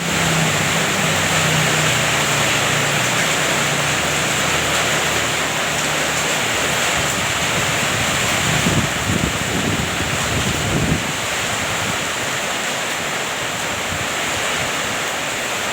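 Heavy rain pouring down steadily, a dense continuous hiss, with gusts of wind buffeting the microphone about halfway through.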